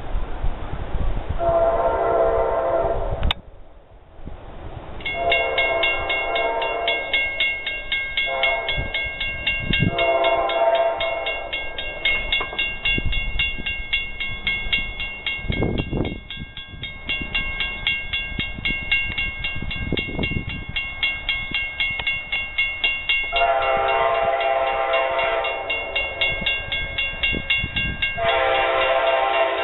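Amtrak locomotive horn blowing the grade-crossing signal of two long blasts, a short one and a long one, as the train rumbles past. Near the end it starts the pattern again with two long blasts. A steady high ringing sounds underneath most of the time.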